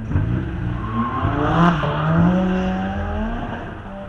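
Mazda MX-5 Miata's four-cylinder engine revving up about a second and a half in, then holding a steadier note that slowly sinks.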